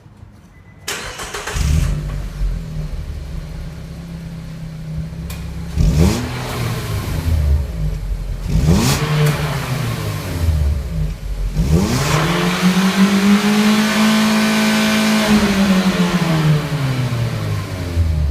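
Nissan Note's four-cylinder engine through its stock muffler, idling and revved about four times, each rev rising and falling in pitch; the last rev is held higher for a few seconds before dropping back to idle near the end.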